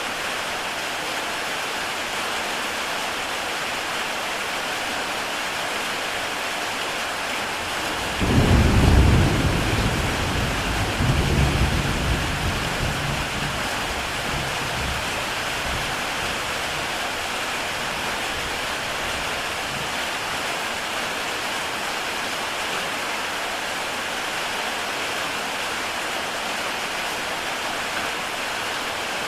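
Heavy rain falling steadily on a tile roof. About eight seconds in, a thunderclap breaks into a low rolling rumble that swells again a few seconds later and fades out.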